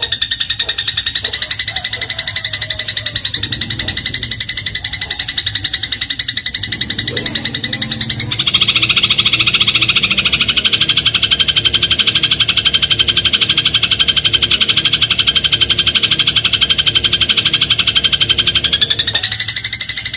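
Eurasian tree sparrow (burung gereja) song: a fast, unbroken rattling trill of rapid high chirps. It changes to a fuller trill with a lower note added about eight seconds in, and changes back near the end.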